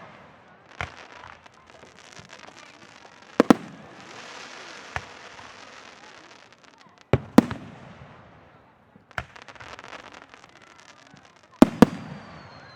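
Aerial fireworks display: shells bursting with sharp bangs every two to four seconds, several in quick pairs, with crackling from the bursts in between. The crackle is thickest in the middle, and a thin falling whistle comes in near the end.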